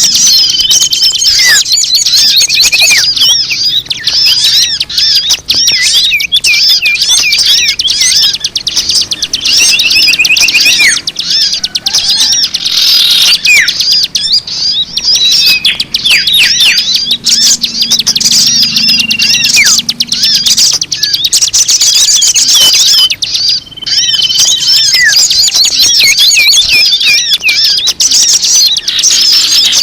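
Dense, continuous chirping and twittering of many small birds, a mixed bird-lure call recording played to attract birds, with a few short steady whistled notes among the rapid chirps.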